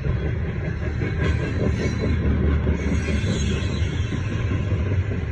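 Freight cars of a CSX train rolling through a grade crossing: a steady, loud rumble of wheels on the rails.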